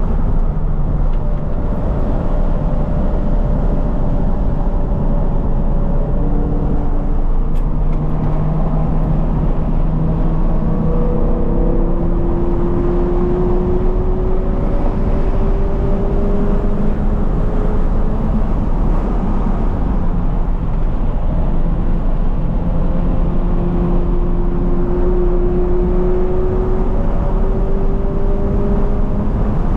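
2020 Toyota 86's flat-four engine with a Corsa cat-back exhaust, driven hard on track. The revs climb slowly for a few seconds at a time, then break off and start again lower, several times over a steady rumble of road and tyre noise.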